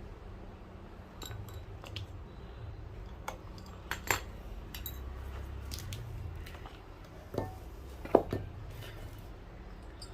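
Scattered taps, clinks and knocks of a cobbler's tools and the shoe being handled, about nine in all, the loudest about four and eight seconds in, over a steady low hum.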